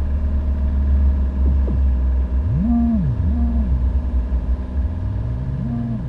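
Steady low drone of a boat's motor running under way, with a low moaning tone that swoops up and back down three times.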